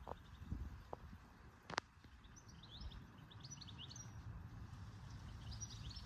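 A small bird chirping in quick, high, repeated notes in two bursts over a low rumble, after a few light clicks and one sharp click about two seconds in.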